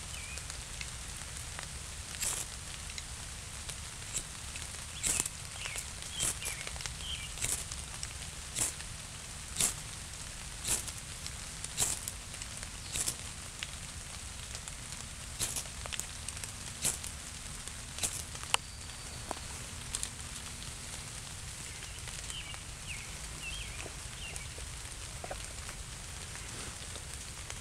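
Rain in woodland: irregular single drops striking close by, a sharp tick every second or so, over a steady low rush.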